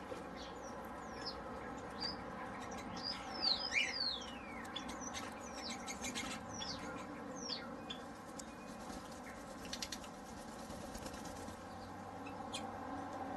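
Aviary birds chirping: a run of short whistled calls that each fall in pitch, coming thickly over the first half and thinning out after, with bursts of faint quick ticking or rustling around the middle.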